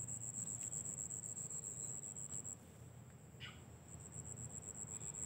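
Insects droning steadily in one continuous high-pitched tone, which dips in level for about a second around the middle.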